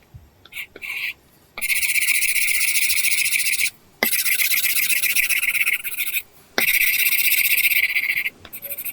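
Apple Pencil tip scratching across a paper-texture screen protector on an iPad: three long runs of quick scribbling strokes, with a few short single strokes near the start and end.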